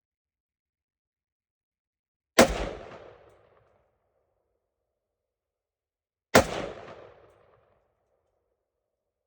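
Two rifle shots about four seconds apart, each a sharp crack that dies away over about a second. These are test shots fired while sighting in a rifle scope.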